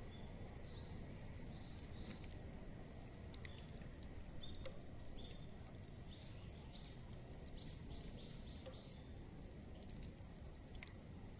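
Small birds chirping with short, scattered calls, then a quick run of about five notes around eight seconds in, over a steady low outdoor rumble, with a few sharp clicks.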